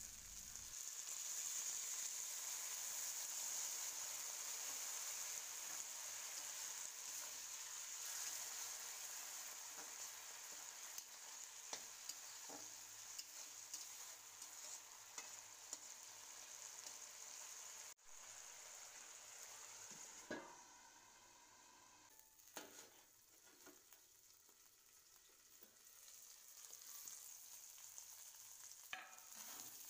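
Bitter gourd slices and onions sizzling in hot oil in a kadai, with a little water in the pan, and a spatula stirring and scraping against the pan a few times. The sizzle eases off about two-thirds of the way through, then picks up again near the end.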